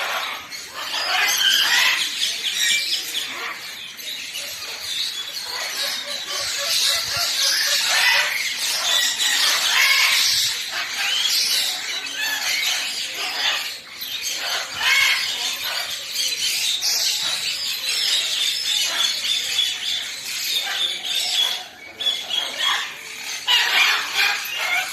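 Many birds chirping and chattering at once: a dense, unbroken din of short high calls overlapping throughout.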